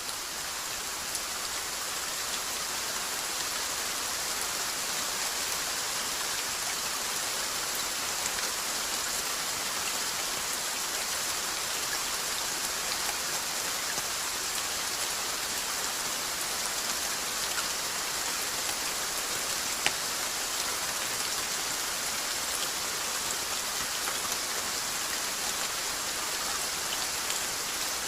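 Steady rainfall: an even hiss of rain on a surface, with scattered single drops ticking through it and one sharper drop tick about two-thirds of the way in.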